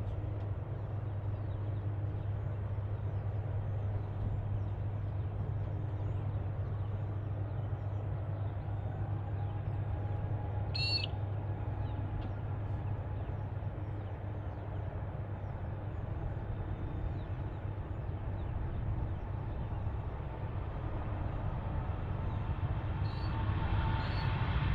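Steady low background rumble of an airport, with one brief bird call about eleven seconds in. Near the end an aircraft's engine noise starts to grow louder.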